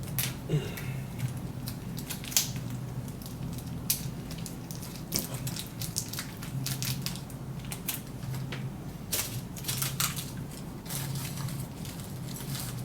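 Irregular crinkling and clicking from food packaging and utensils being handled, over a steady low hum.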